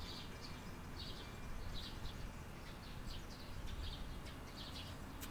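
Small birds chirping, short high chirps about once or twice a second, over a steady low background rumble.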